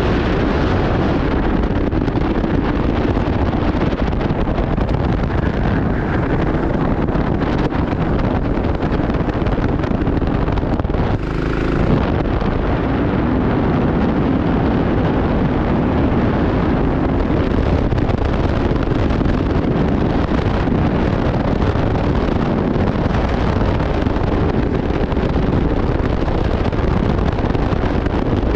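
Racing kart engine running hard on track, with wind buffeting the onboard microphone. The level briefly drops about eleven seconds in.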